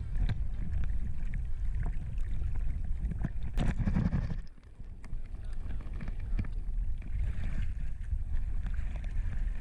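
Wind buffeting the microphone, a steady low rumble with scattered small knocks, dipping briefly about four and a half seconds in.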